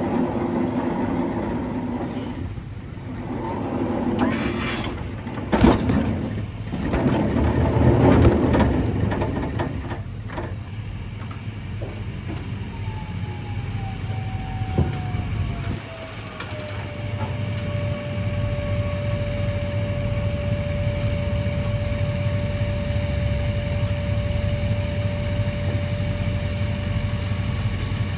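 Pallets being moved and slid onto a truck trailer, with rough knocks and clatter, over a steady low engine hum. About halfway through, a whining tone drops in pitch and then holds steady.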